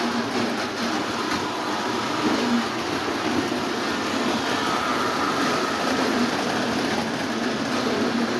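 Lionel O27 toy trains running steadily on their track: the diesel locomotive pulling its cars and the trolley car, with wheels and motors making an even, unbroken rumble.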